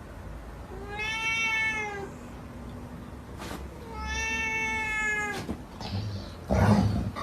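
A domestic cat meowing twice, each a long, drawn-out meow that rises and falls in pitch. Near the end a short loud thump.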